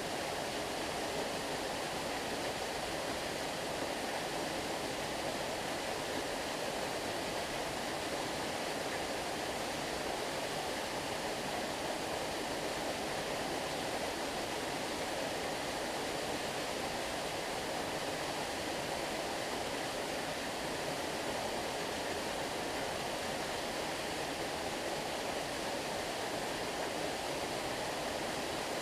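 Stream water flowing and rushing steadily, an even unbroken wash of sound.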